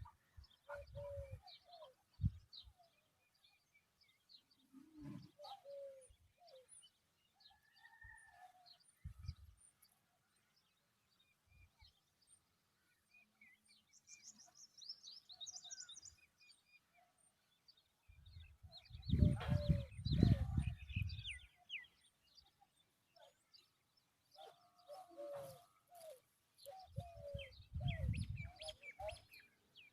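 Birds chirping and calling in short, separate notes, with a busier run of calls near the end. Low rumbles break in twice, the longer one about two-thirds of the way through.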